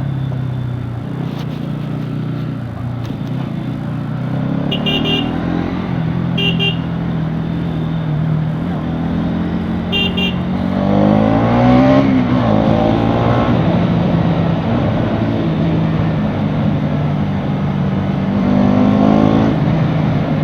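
Bajaj Pulsar NS200's single-cylinder engine running under way, its pitch rising twice as the bike accelerates, about halfway through and near the end. Short vehicle horn beeps sound three times in the first half.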